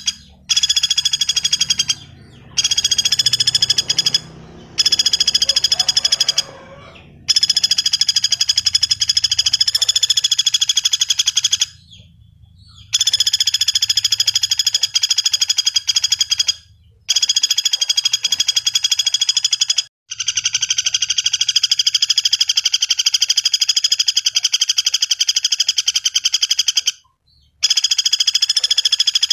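Pelatuk bawang woodpecker calling in long, very fast rattling trills. Each trill lasts from about one and a half to seven seconds, with short pauses between them.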